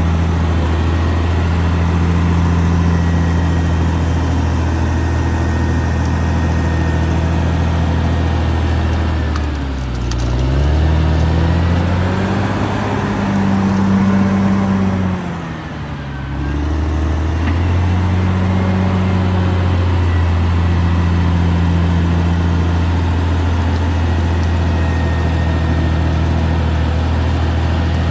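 Caterpillar D6R XL bulldozer's diesel engine running steadily. Its pitch sags and climbs back about ten seconds in, and again around the middle with a brief drop in loudness.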